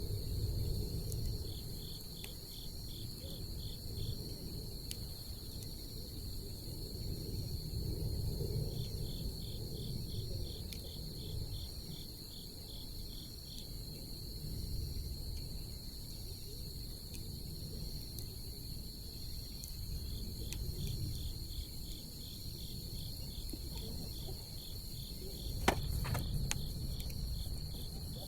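Crickets chirping at night: a steady high trill with runs of quick pulsed chirps that start and stop, over a low rumble from the bonfire. One sharp crackle from the burning wood comes a few seconds before the end.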